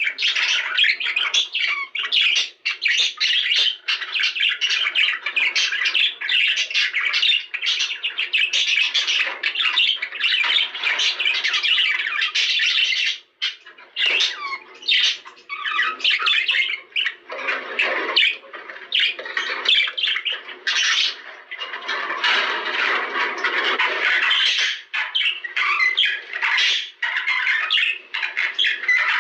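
Budgerigars chattering and warbling without pause, a dense stream of chirps and sharp calls, with a brief lull about 13 seconds in.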